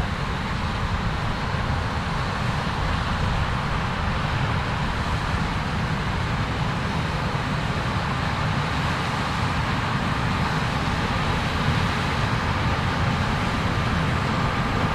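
Heavy farm machinery running steadily in a field, a continuous low engine drone with no clear change in speed.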